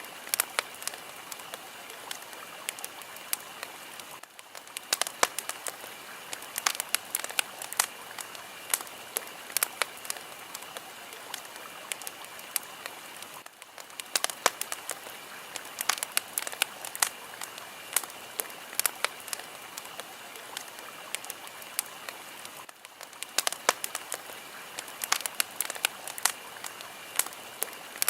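Fire crackling: a steady hiss thick with sharp pops and snaps. The hiss briefly drops out three times, about every nine seconds.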